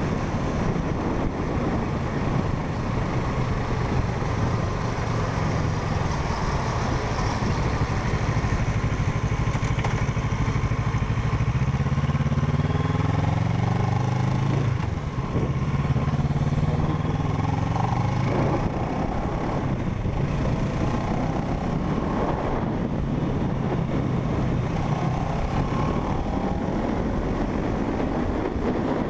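Parallel-twin sport motorcycle engine under way, over steady wind and road rush. About twelve seconds in, the engine pitch climbs, dips briefly about halfway, climbs again, then settles back to a steady cruise.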